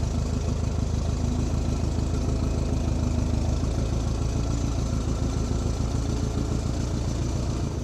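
Forklift engine running steadily, around idle.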